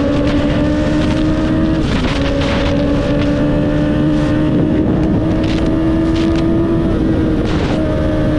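Motorcycle engine running at road speed, its note slowly climbing and then dropping sharply about two seconds in and again near the end, like gear changes, with wind buffeting the microphone.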